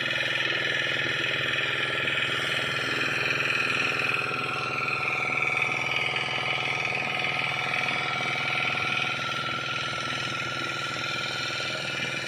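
An engine running steadily, with a slight shift in its pitch partway through.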